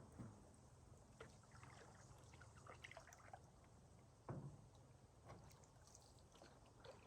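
Faint canoe paddling: water trickling and dripping off the paddle in small scattered drips, with a soft knock a little after four seconds.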